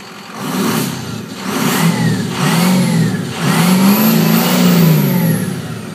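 2004 Ford 6.0L Powerstroke V8 turbodiesel revved several times through a 4-inch exhaust with no particulate filter or muffler, each rev rising and falling. The last rev is held the longest, and a high turbo whistle rises and falls with it.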